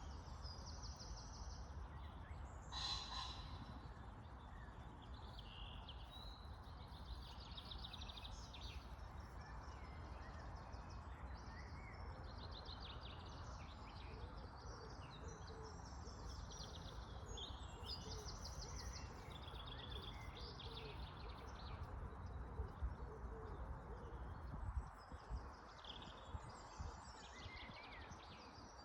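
Several birds singing and chirping in short repeated trills, over a steady low background rumble.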